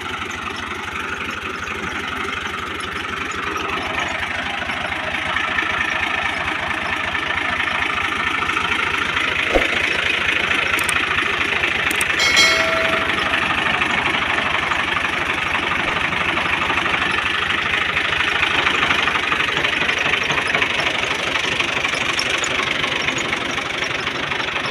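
An engine running steadily, a little louder after the first few seconds, with a single sharp click about ten seconds in and a brief pitched tone a couple of seconds later.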